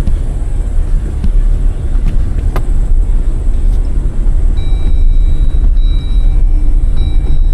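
Off-road vehicle driving over rough ground, a loud steady low rumble of engine and running gear.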